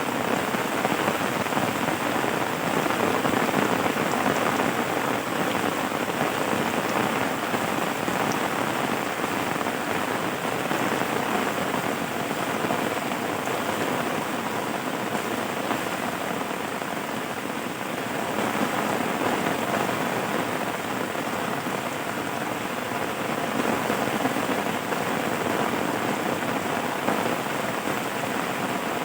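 Steady, even rain falling, a dense patter of drops on a surface.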